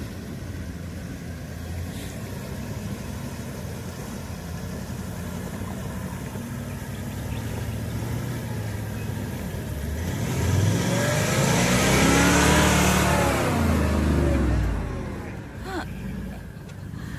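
Four-wheel-drive vehicle's engine running through a river crossing, revving hard for a few seconds about ten seconds in as it powers through, then easing off.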